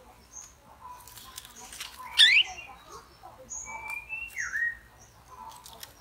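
Bird calls: a loud, fast rising chirp about two seconds in, then short high chirps, a brief held whistle and a dipping whistled note.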